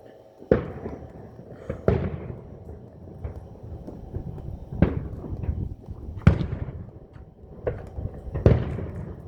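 Aerial fireworks shells bursting in a display: five loud booms one to three seconds apart, each with an echoing tail, with smaller pops in between.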